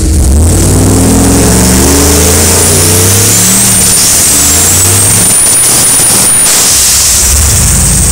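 Big-turbo drag car, a Chevelle, accelerating hard down the strip, its engine pitch climbing in steps through the gear changes and then fading as it pulls away, with a high whistle rising over it that cuts off about six seconds in. A lower engine sound comes in near the end.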